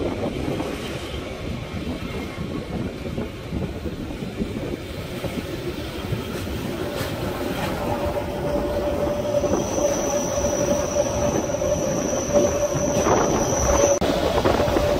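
Matterhorn Gotthard Bahn narrow-gauge train running, heard through an open carriage window: a steady rumble and clatter of wheels on track, growing louder. About halfway in a steady wheel squeal sets in as the train takes a curve, and a second, higher squeal tone joins it for a few seconds and cuts off sharply near the end.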